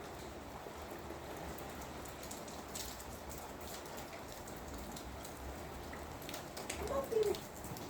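Steady rain with scattered drips and taps. About seven seconds in there is a brief, louder pitched call.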